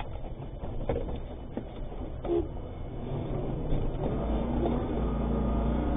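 Armoured truck's engine and road noise heard inside the cab: a low, steady rumble with a few faint knocks, growing louder about four seconds in.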